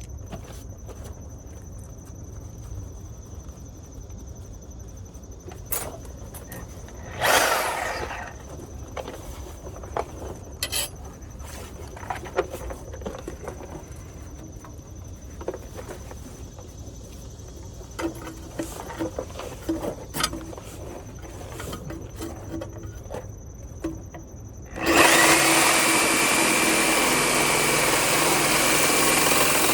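Scattered clicks and knocks, with a brief loud noise about seven seconds in. About 25 seconds in, a reciprocating saw starts and cuts steadily through the metal exhaust flange connector below the catalytic converter.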